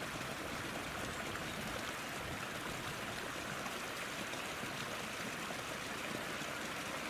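Steady rush of running stream water, even and unbroken.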